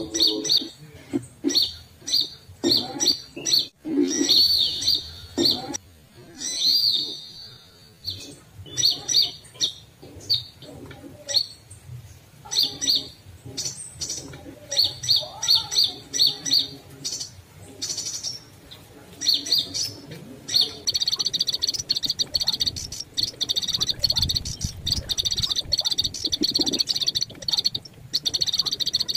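Small birds chirping: many short, sharp calls with gaps between them. About two-thirds of the way through they turn into a dense, unbroken chatter.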